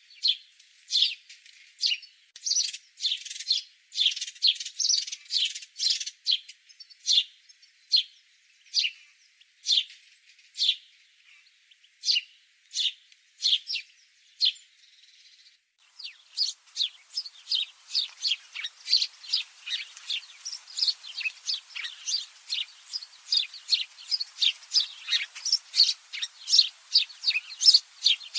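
Small songbirds chirping: short, high chirps repeated a few times a second. About halfway through the recording changes and the chirping becomes faster and denser, several chirps a second.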